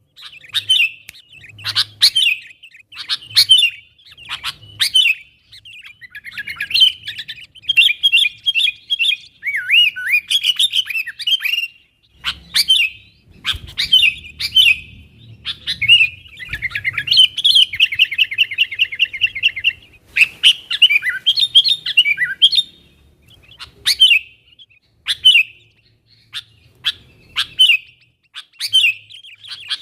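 Sooty-headed bulbul (kutilang) calling busily: a string of short, sharp chirps, with warbled phrases and, in the middle, a rapid even trill.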